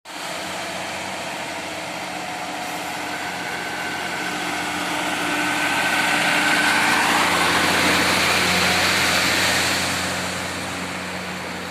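Heavy rain, a dense even hiss, with a steady low hum underneath. The rain swells to its loudest in the middle and eases again near the end.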